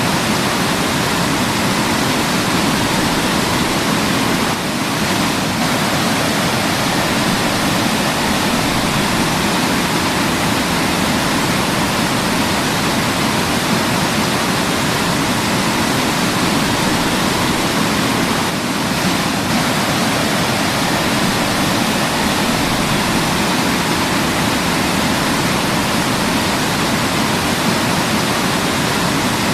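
Waterfall: a steady rush of falling water, with the level dipping slightly for a moment twice.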